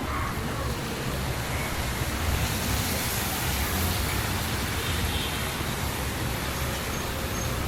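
Heavy rain pouring steadily, with street traffic running low underneath, a little louder about two seconds in.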